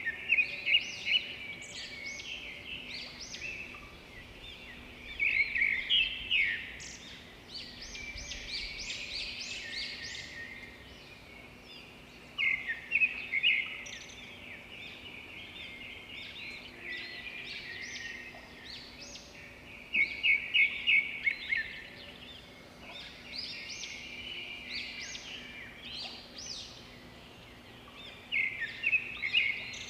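Birds chirping in bursts of quick, high repeated notes every several seconds, over a faint steady hum.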